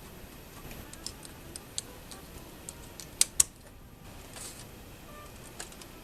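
Light, irregular clicks and taps from small parts and tools being handled while a Betamax VCR is worked on, with two sharp clicks close together about three seconds in.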